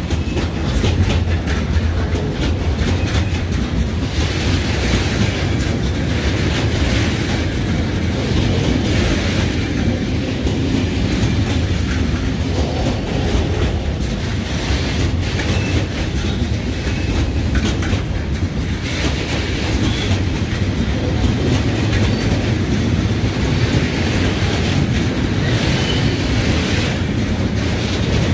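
Freight train wagons rolling steadily past, wheels clicking over the rail joints in a clickety-clack.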